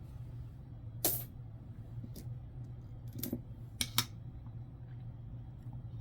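Jefferson nickels clicking as they are handled and set down. One sharp click comes about a second in, a few lighter clicks follow, and a quick double click comes near four seconds, over a steady low hum.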